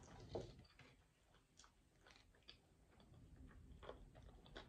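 Faint close-miked chewing of a mouthful of pizza, with small wet mouth clicks and smacks scattered through, the loudest about half a second in.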